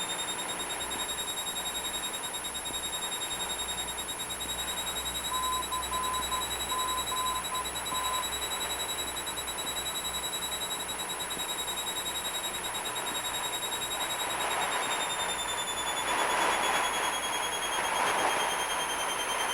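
Steady in-flight cabin drone of a Cessna 172, from its engine and propeller, with a high steady whine over it. About five seconds in comes a short run of faint beeps, and the noise grows a little near the end.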